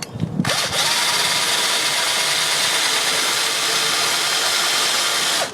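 Handheld power tool motor running steadily at full speed for about five seconds, starting and stopping abruptly.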